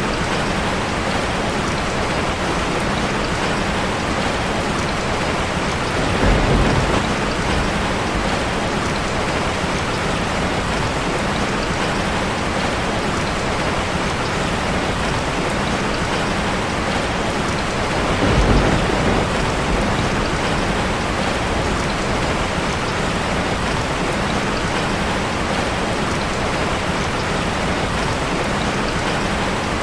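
Steady heavy rain drumming on a metal roof, with two short low rumbles, about six seconds in and again past the halfway point.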